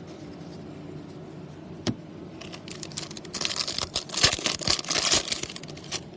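Foil wrapper of a baseball card pack being crinkled and torn open. It starts with a single sharp click about two seconds in, then a few seconds of dense crackling.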